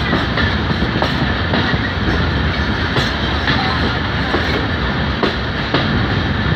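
Moving passenger train coach running along the track: a steady rumble and rush, with the wheels clicking over rail joints every second or so.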